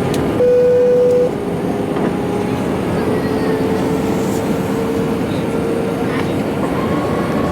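Airbus A320 cabin noise on the approach: a steady rush of engine and airflow noise with a steady humming tone, louder for about a second just after the start and then fainter.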